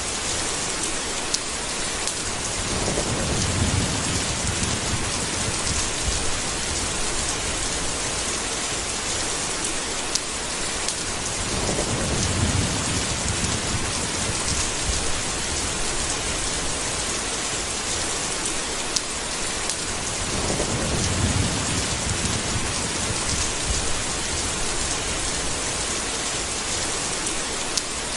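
Steady, dense rain with three low rolls of thunder, about nine seconds apart.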